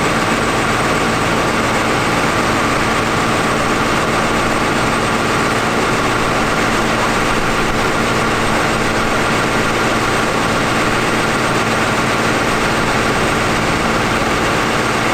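John Deere 7800 tractor's six-cylinder turbo-diesel engine running at a steady, unchanging speed on a PTO dynamometer test.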